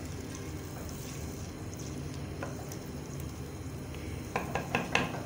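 Marinated chicken and onions frying in hot oil in a clay handi, a steady low sizzle. Near the end come several short sharp clicks and knocks.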